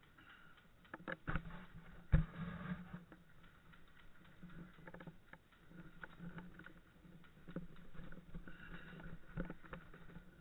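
Scattered knocks and rustling of a player's gear as he moves, with one sharp crack about two seconds in.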